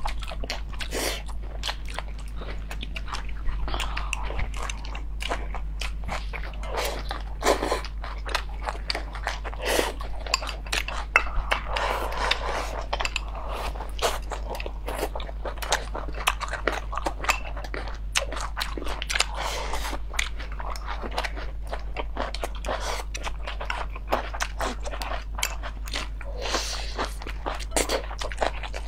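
Close-miked eating sounds: people chewing mouthfuls of rice and food, with many small sharp clicks, over a steady low hum.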